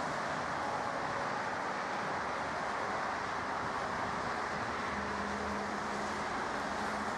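Steady distant engine roar, even in level, with a low steady hum joining about five seconds in.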